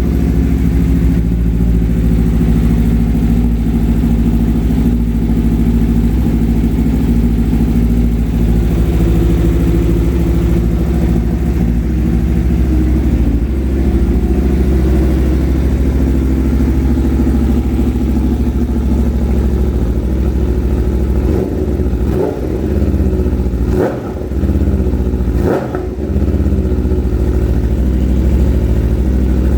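Aprilia 1100 Factory's V4 engine breathing through an aftermarket SC Project S1 low-mount exhaust, idling steadily and then blipped sharply three times near the end, each rev rising and dropping back quickly.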